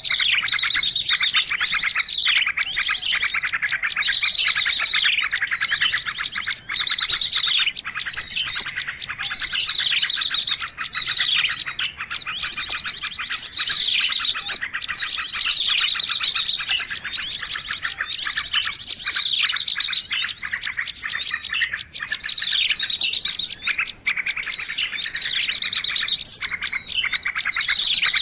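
Many small songbirds chirping and trilling at once in a dense, unbroken chatter of rapid high calls: a bird-lure recording used to draw small birds in.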